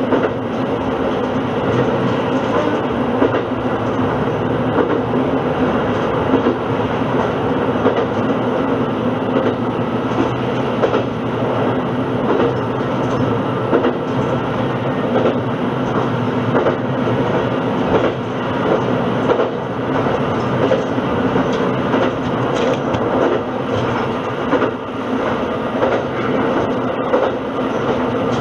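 Diesel railcar running along single track, heard from inside the car: a steady engine and running noise with occasional clicks of the wheels over rail joints.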